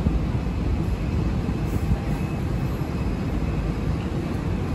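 Airport rail link electric train moving through the station, with a steady low rumble from its wheels on the track.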